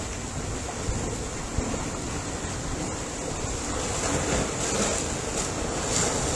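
Ocean surf: waves washing ashore as a steady rush of noise, swelling a little in the second half.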